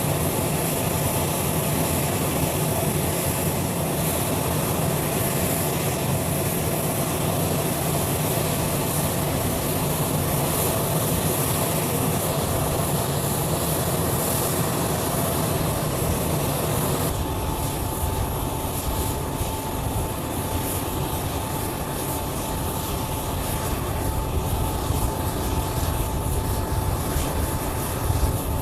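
Jet aircraft engines running steadily, a continuous roar and hiss. About seventeen seconds in the sound shifts: the hiss eases and a thin steady whine comes in.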